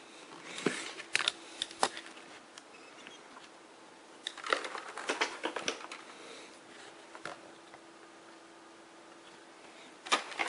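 Plastic vacuum cleaner parts being handled and fitted together: scattered clicks and knocks, one group about a second in and a busier group around five seconds in.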